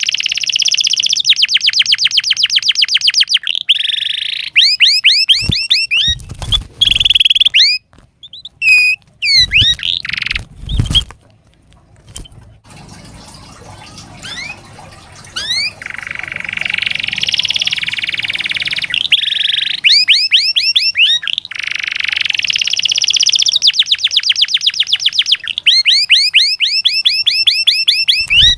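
Domestic canary singing: long trills of fast, evenly repeated high notes, broken by short pauses, with a buzzy roll in the middle of the song. A few dull low thumps come about a third of the way through.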